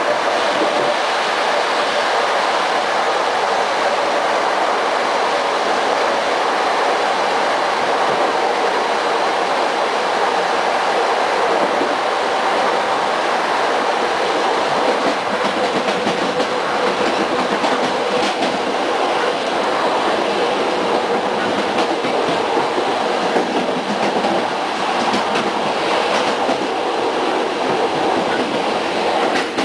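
Running noise heard inside a passenger coach of a train at speed: a steady rumble of the wheels on the rails with a faint steady hum. Through the second half, scattered clicks of the wheels passing over rail joints.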